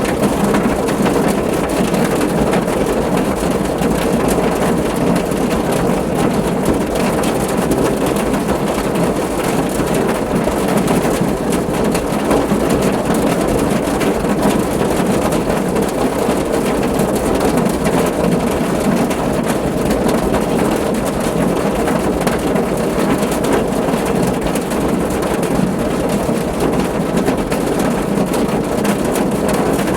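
Steady rain drumming on a car roof, a dense, even patter of many drops with a deep rumble underneath.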